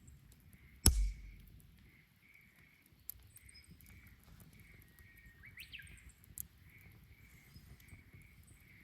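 Bonfire with a loud sharp pop about a second in and a few small snaps after it, over an insect's steady pulsing chirp. A short call rises and falls near the middle.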